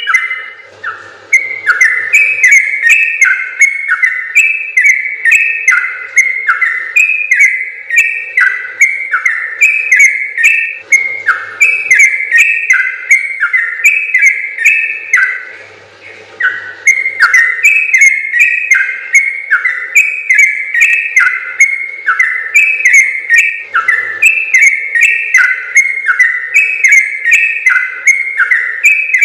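Yellow-vented bulbul (trucukan) singing a long, rapid run of short bubbly whistled notes in quickly repeated phrases, breaking off briefly about a second in and again about halfway through.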